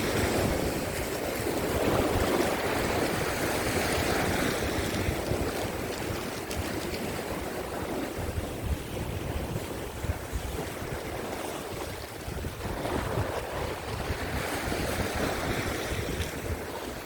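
Rough sea surf washing against shore rocks, with strong wind rumbling on the microphone. The wash swells louder near the start and again about three-quarters of the way through.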